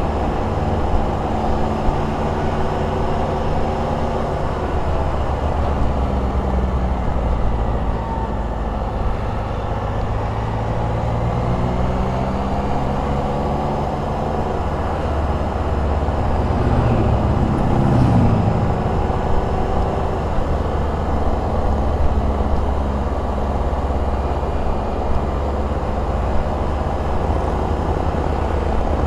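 Can-Am Spyder RT's Rotax three-cylinder engine running under way, with steady road and wind noise; the engine note drifts slowly up and down, with a brief rise and fall partway through.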